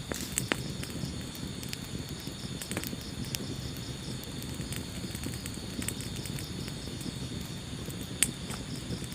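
Wood fire burning in a fireplace: a steady low rumble of flames with scattered crackles and a few sharp pops, the loudest a little after 8 seconds.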